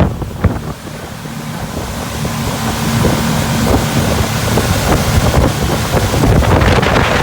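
Hurricane 2400 boat under way, its engine running with hull and water noise and wind buffeting the microphone; the noise builds steadily over several seconds as the boat picks up speed.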